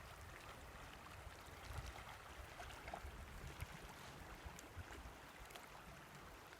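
Faint riverside ambience: a low, uneven wind rumble with light water lapping and small ticks.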